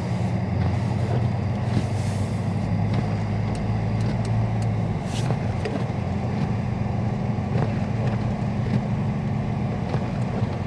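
2022 Dodge Charger Scat Pack's 6.4-litre HEMI V8 running steadily while driving slowly, heard from inside the cabin as a low, even drone with road noise.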